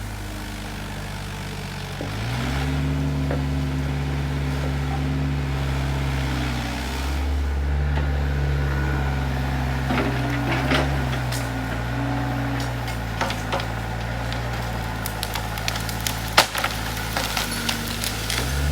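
Volvo ECR88 excavator's diesel engine running, picking up revs about two seconds in and shifting pitch a few times as the machine works. Sharp cracks and snaps of wood breaking come through over it, most of them in the second half.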